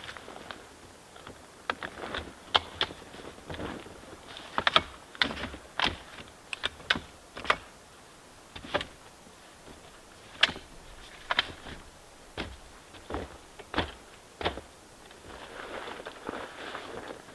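Irregular sharp clicks and knocks, about one or two a second and unevenly spaced, over a low, steady background hiss.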